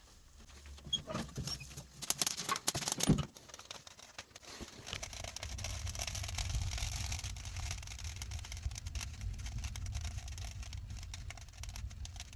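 Christmas-tree fir branches burning in a wood stove: dense crackling and popping, loudest in a cluster of sharp cracks about two to three seconds in. From about five seconds in, a steady low rumble and hiss of the fire drawing join the continuing crackles.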